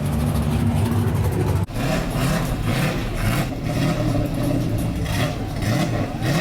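Car engine running and revving up and down repeatedly, with an abrupt cut about a second and a half in.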